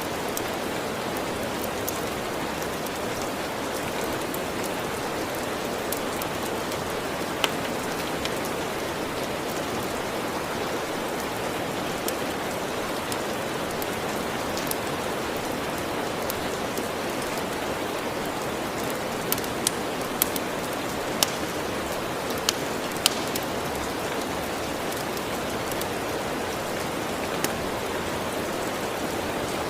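Steady rain falling on a surface, an even rushing patter, with a few sharp pops scattered through it and a short cluster of them about two-thirds of the way through.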